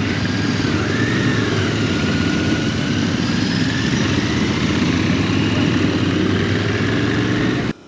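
Royal Enfield GT 650's parallel-twin engine running steadily, loud and even; the sound cuts off abruptly near the end.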